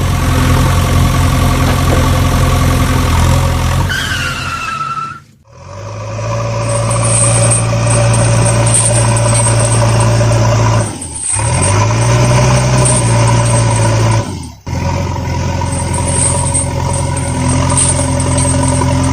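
Motor vehicle engine running steadily with a low hum, broken by abrupt cuts about five, eleven and fourteen and a half seconds in.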